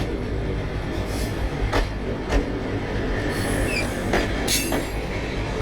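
Train running on the rails: a steady low rumble with irregular sharp clicks and a brief high squeak about three and a half seconds in.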